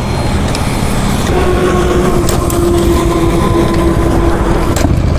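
1972 Jawa motorcycle's engine running with a steady rumble; a steady higher tone joins about a second in and drops out near the end.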